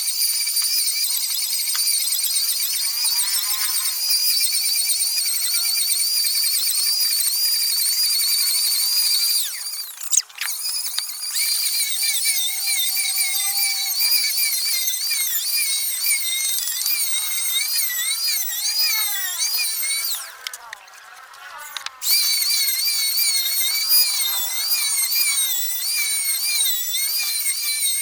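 Handheld electric power tool running with a high-pitched motor whine whose pitch wavers as it works. It stops briefly twice, about a third of the way in and again about three quarters through.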